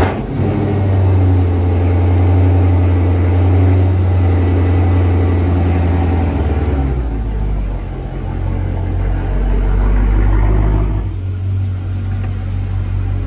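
Dodge Charger SRT's HEMI V8 running at a fast idle just after start-up, with a steady low rumble. About seven seconds in, the idle drops to a lower pitch, then briefly swells again before settling.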